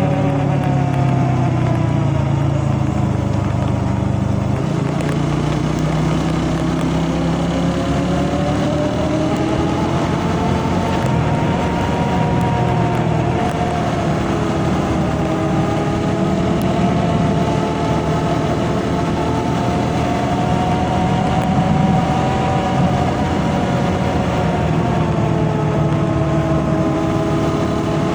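Vehicle engine running while driving on the road, its pitch slowly rising and falling as the speed changes.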